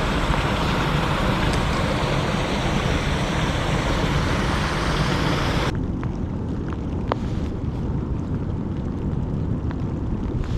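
Wind buffeting the microphone with a low rumble, under a steady hiss of heavy rain. A little over halfway through, the hiss cuts off abruptly, leaving the low wind rumble and a few faint ticks.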